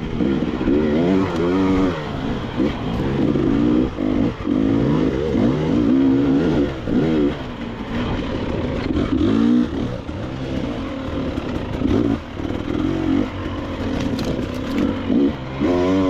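KTM 300 XC-W two-stroke enduro dirt bike engine revving up and down again and again as the throttle is worked over rough trail, with a few knocks and clatters from the bike over rocks.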